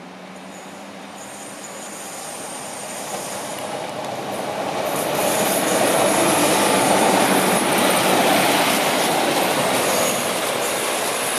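Class 156 Sprinter diesel multiple unit passing at speed. Its engine note and wheel-on-rail noise grow louder as it approaches, are loudest for about five seconds as it goes by, then ease off slightly near the end.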